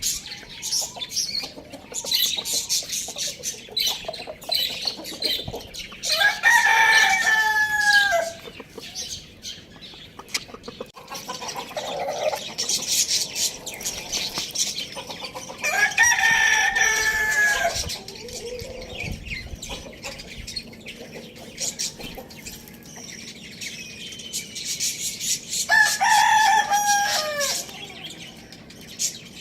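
A rooster crowing three times, about ten seconds apart, each crow about two seconds long. Between the crows, hens cluck and small birds chirp.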